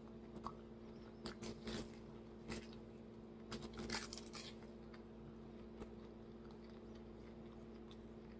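Faint chewing and crunching on fried, deliberately burnt chicken: a few short crisp crunches in clusters, over a steady low hum.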